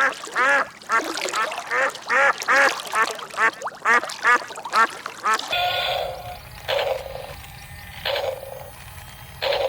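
Ducks quacking, a quick string of about three calls a second for the first half. Then, over a steady low background rumble, a few separate quacks follow a couple of seconds apart.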